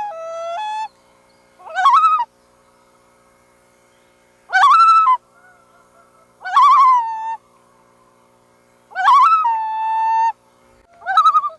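Loons calling, about six short wavering cries in turn, several of them ending on a held note.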